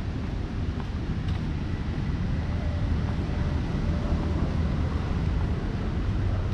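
Steady beach ambience of ocean surf and wind buffeting the microphone: a dense, even low rumble with no distinct breaks.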